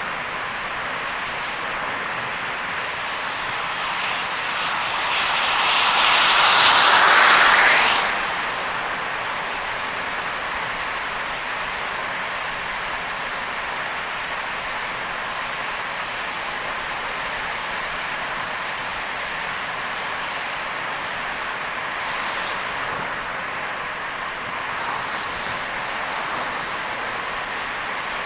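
Steady rush of tyres and rain on a wet expressway as a car drives through a heavy rainstorm. A louder spray-like rush swells over about four seconds and cuts off suddenly about eight seconds in, and a few brief hisses come near the end.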